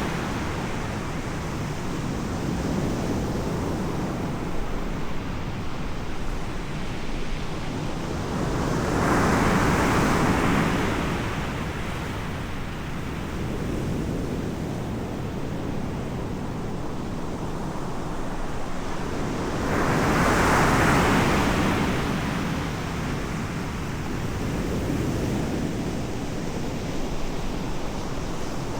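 Ocean surf: waves breaking on the shore in slow surges about every eleven seconds, over a steady rush of water and wind on the microphone.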